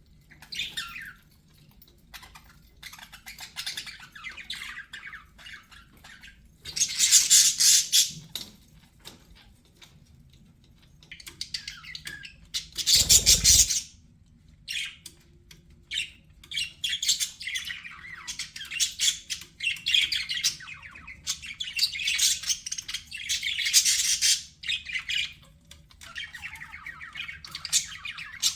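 Budgerigars chattering and warbling in irregular bursts of a second or a few seconds with short pauses between them. The loudest bursts come about seven and thirteen seconds in, the second with a low thump under it.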